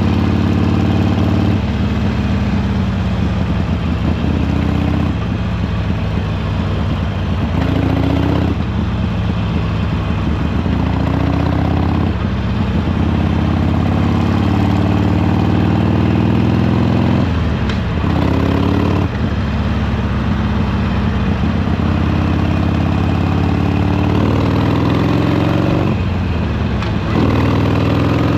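Harley-Davidson Sportster Iron 883's air-cooled V-twin engine running under way, its note rising with the throttle and dropping back sharply several times, as at gear changes or throttle lifts.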